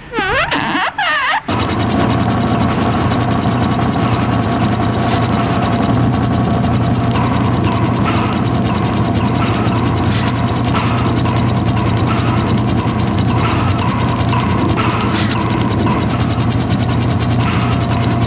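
Xiro Xplorer quadcopter's motors starting up and running steadily with a fast, even rattling buzz, after a brief sweeping electronic tone at the start.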